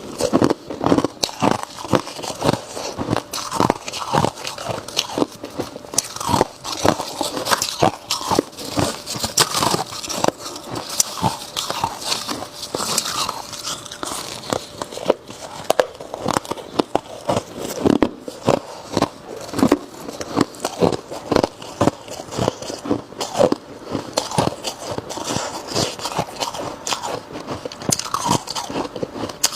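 A person biting and chewing ice close to the microphone: a dense, irregular run of sharp crunches and cracks as the ice breaks between the teeth.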